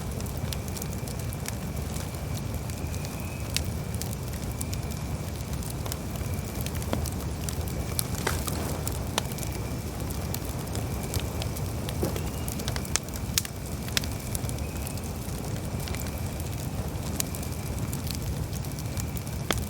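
Campfire burning: irregular sharp crackles and pops over a steady low rumble of the flames, with a faint steady high tone in the background.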